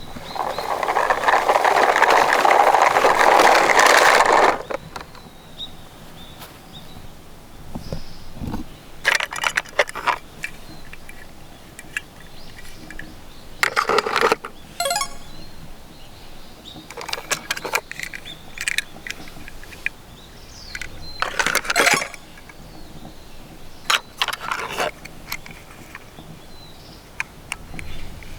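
Small die-cast toy cars clicking and clinking as they are handled, in scattered bursts of sharp clicks. A loud, even rushing noise fills roughly the first four seconds.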